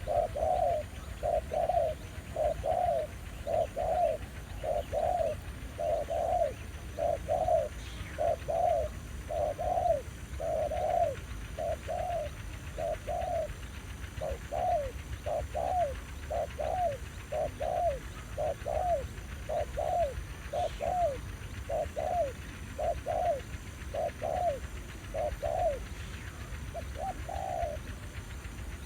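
Spotted doves cooing: a long run of short, repeated coos, a little over one a second and often in pairs, that stops near the end.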